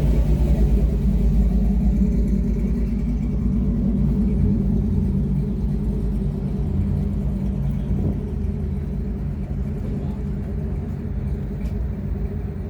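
Truck engine running with a steady low rumble, slowly growing fainter.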